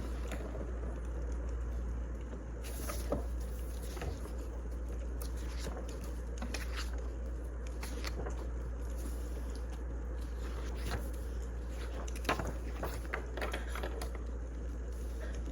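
Firewood burning, crackling with irregular sharp pops over a steady hiss and a constant low hum.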